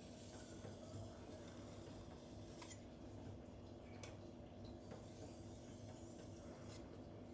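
Faint scraping strokes of a cleaver's steel edge on a silicon carbide whetstone, with a few light clicks, over a steady low hum.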